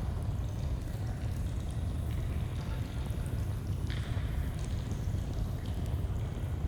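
A flowing stream, a steady rushing with a low rumble, mixed with the scattered crackles and pops of a campfire; one sharper pop comes about four seconds in.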